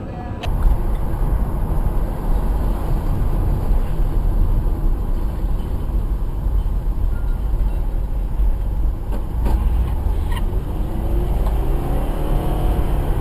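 Steady low rumble of a car driving, road and engine noise, starting abruptly about half a second in.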